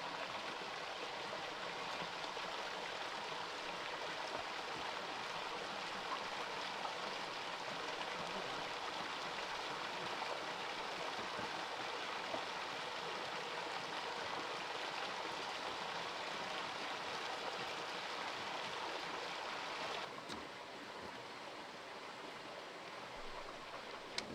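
Steady rushing of flowing stream water. It drops a little quieter suddenly about 20 seconds in.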